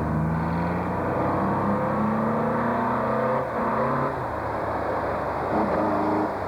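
Classic rally car engine accelerating hard on a mountain stage, its pitch rising and falling several times as it revs.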